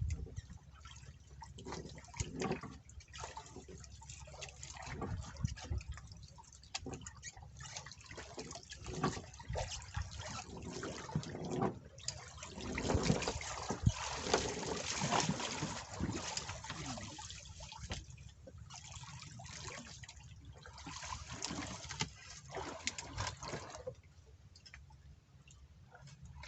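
Water sloshing and splashing irregularly, with many small splashes and knocks, busiest around the middle.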